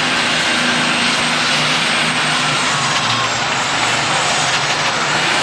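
Super stock pulling tractor's turbocharged diesel engine running flat out under load while pulling the sled, loud and steady throughout.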